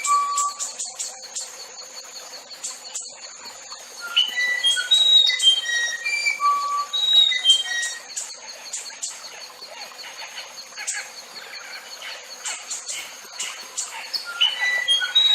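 A songbird singing phrases of clear whistled notes that jump between pitches, repeated several times, over a steady high buzz.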